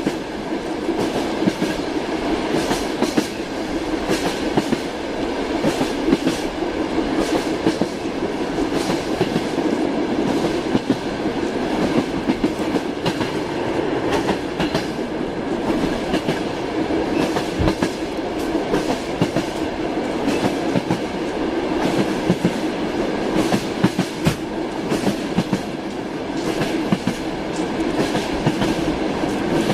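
Railway wagon wheels clattering over rail joints with steady rolling noise, an irregular run of sharp clicks over a continuous rumble that doesn't let up.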